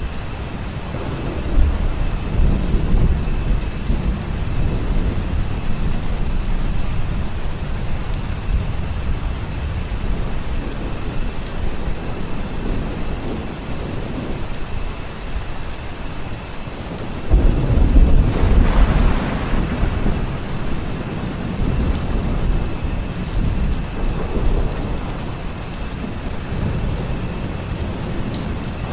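Steady rain with thunder. A deep rumble rolls through in the first few seconds, and about two-thirds of the way in a louder, sharper thunderclap breaks in suddenly and rumbles away over a few seconds.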